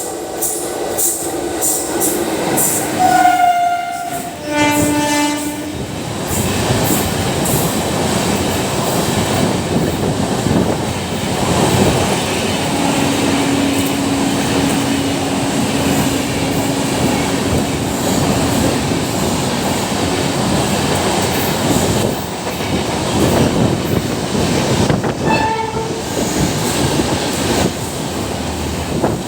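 An express train running through at speed: a steady rumble of wheels on rail with clickety-clack. The train horn sounds in short blasts about three to five seconds in, as one long held note through the middle, and briefly once more near the end.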